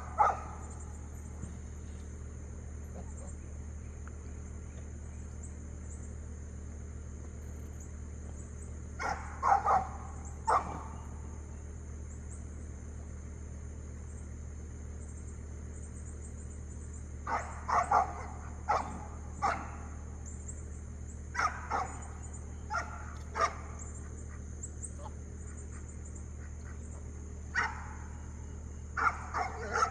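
Dog barks and yips in short scattered bursts: a few about nine seconds in, a run of them from about seventeen to twenty-three seconds, and more near the end, over a steady low hum.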